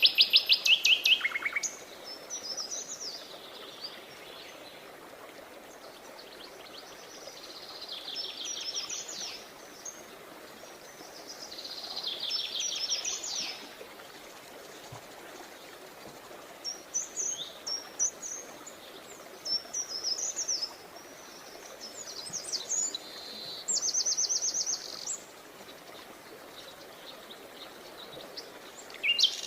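Songbirds singing in bursts: rapid high trills and short chirping phrases, with quieter gaps between them, over a faint steady background hiss. Loud trills open the passage, another quick trill comes a little before the end, and loud trilling returns at the very end.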